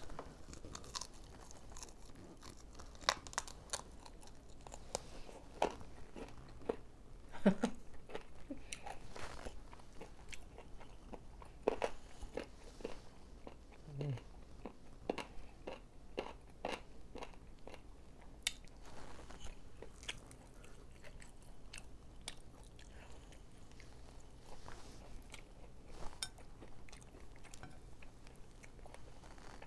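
Close-up chewing and biting of fried chicken: irregular crunches and small wet mouth clicks.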